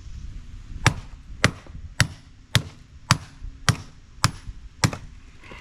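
Sledgehammer striking a scrapped appliance part: eight sharp blows at a steady pace of about two a second, starting to crack the part.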